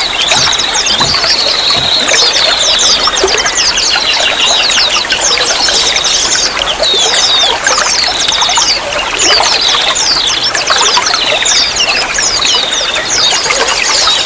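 Running water trickling and splashing steadily, with many small birds chirping over it in quick, high, downward-sweeping notes and a thin high trill.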